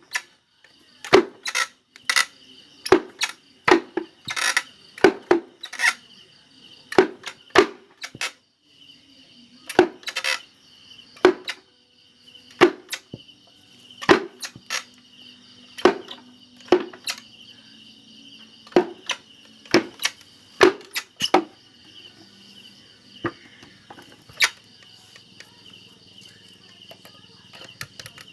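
Wooden jaw of a barongan mask being snapped shut: sharp wooden clacks, often two in quick succession, about one every second, growing sparser near the end.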